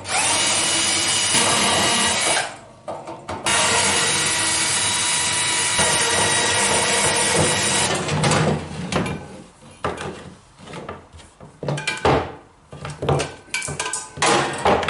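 Two long bursts of loud hissing with a steady whine through them, followed by irregular knocks and clatter as the casing of a flood-damaged electric heater is handled and shaken to drain it.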